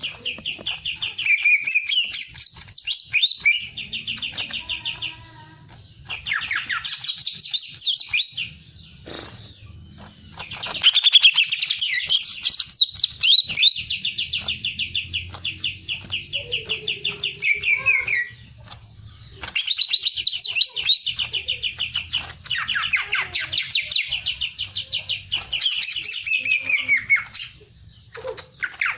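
A caged songbird singing long, fast trilled phrases of rapidly repeated high notes, with sweeping chirps mixed in. The phrases last several seconds each, separated by short breaks.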